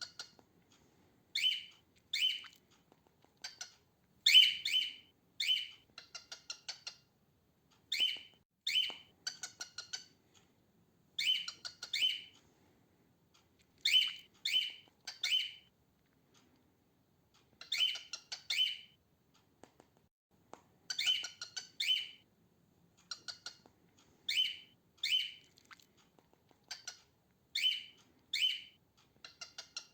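Female cockatiel calling: short, squawky calls, mostly in pairs or threes every few seconds, with quick runs of fainter chirps between some of them.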